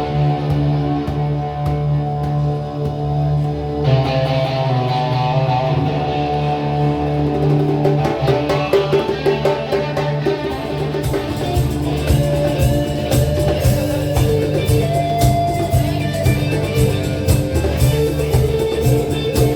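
Live rock band playing, with guitar and bass carrying the music. Sharp percussive hits grow dense and bright about eleven seconds in.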